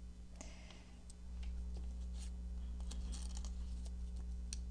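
Scattered small clicks and soft rustles of paper and cheesecloth being handled and laid in place, over a steady low hum.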